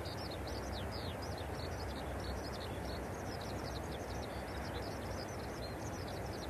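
Birds chirping continuously: many short, high calls, each sweeping downward, over a steady background hiss.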